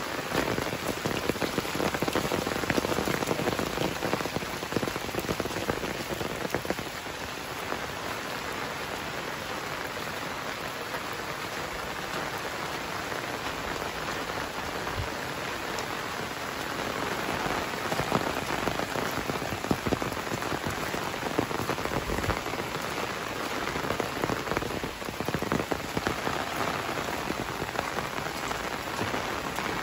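Heavy rain falling steadily on flooded crop furrows and the surrounding trees and grass.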